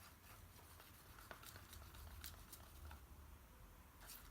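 Faint scraping and light ticking of a stick stirring thinned acrylic paint in a cup, over low room hum.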